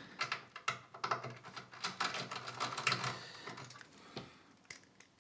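Quick irregular clicks and taps of small parts and tools being handled and set down on a workbench, dense at first and thinning out towards the end.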